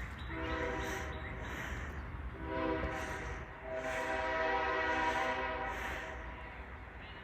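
CSX locomotive air horn sounding three blasts, the last one the longest, a chord of several steady tones over a low rumble.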